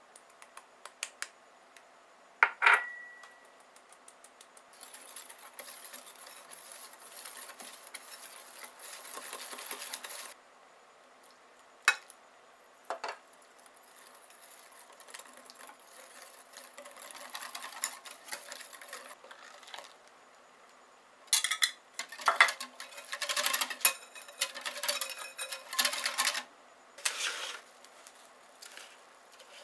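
Kitchen utensil clinking and scraping against a bowl while the custard cream is worked: a sharp clink about two and a half seconds in that rings briefly, stretches of scraping, a few separate knocks, and a burst of clatter in the second half.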